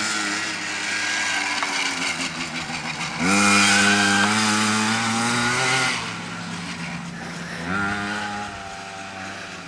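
Motocross dirt bike engine revving hard as it accelerates, its pitch climbing. It is loudest from about three seconds in, eases off around six seconds, then revs up again near the end.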